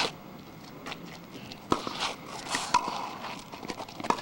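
Footsteps with scattered sharp knocks and clicks, the loudest about a second and a half and just under three seconds in, during a scored ball game.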